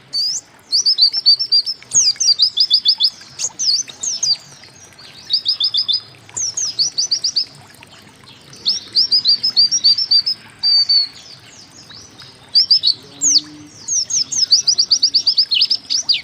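White-eye (pleci) singing: bursts of rapid, high 'wit wit' notes, each burst a quick run of sharp repeated notes, broken by short pauses.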